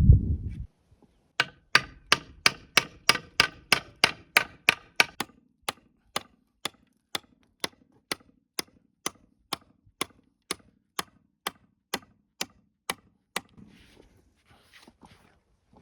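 A regular series of sharp clicks or taps, about three a second at first and slowly spacing out to about two a second, stopping a couple of seconds before the end, after a low thump at the very start.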